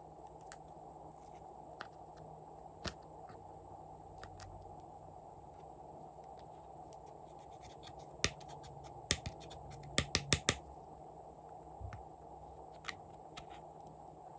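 Sharp clicks and snaps from hands working glossy slime, scattered over a steady low hiss, with a quick run of about five loud clicks some ten seconds in.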